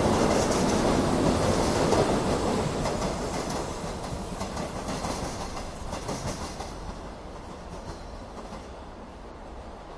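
An electric metro train running past close by, its wheels clattering over the rail joints. The noise is loud for the first couple of seconds, then fades steadily as the train moves away.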